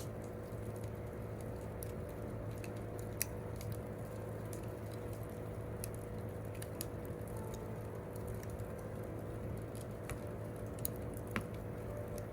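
Wood campfire crackling: scattered sharp pops and snaps, irregular, a few louder ones, over a steady low background of the burning fire.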